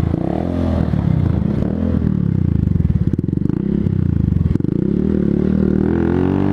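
125cc motorcycle engine running under way, its pitch rising and falling with the throttle, with short drops in revs about two seconds in and again about four and a half seconds in, as at gear changes.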